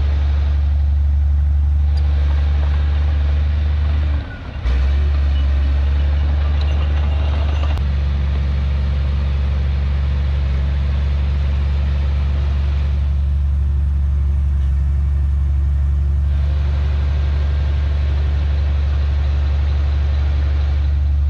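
Heavy diesel engine of earthmoving machinery running with a steady low drone, with a brief dip in level a little past four seconds in.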